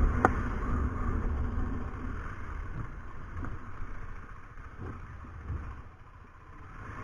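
KTM 390 Adventure's single-cylinder engine running under way with a low wind rumble, growing gradually quieter. A single sharp click sounds just after the start.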